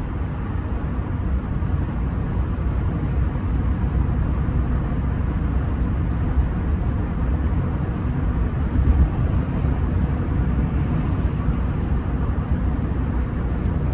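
Rolls-Royce Silver Spirit III under way, heard from inside the cabin: a steady low rumble of road and engine noise while cruising, with no sharp events.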